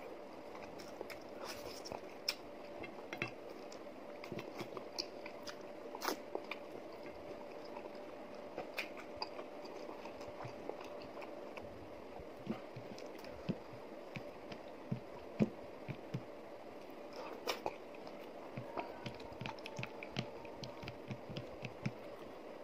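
Close-up eating sounds of a person eating ragi mudde and chicken by hand: chewing with many small irregular mouth clicks and smacks, over a faint steady hum.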